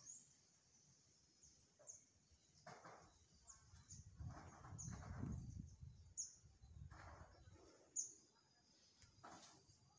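Faint, short high bird chirps, each sliding down in pitch, repeating about once a second over quiet outdoor background, with a low rumble through the middle.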